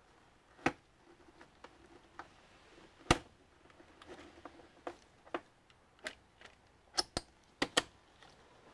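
Irregular sharp clicks and snaps from the plastic clips and parts of an all-in-one computer's casing being worked apart during disassembly, ending in a quick run of four clicks.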